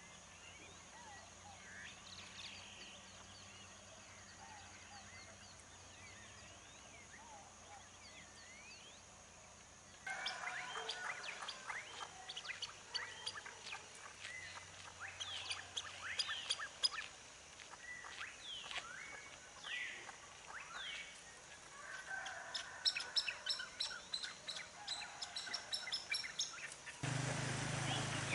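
Several songbirds chirping and singing in a dawn chorus, faint for the first ten seconds and then louder and busier, with quick repeated chirps near the end. A low rumble comes in just before the end.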